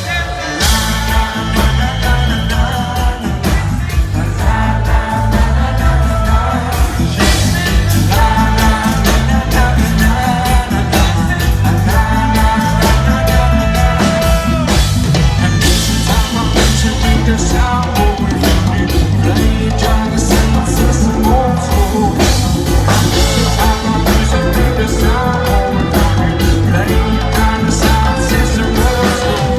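A live reggae band playing with a singer, over a steady heavy bass line and drums.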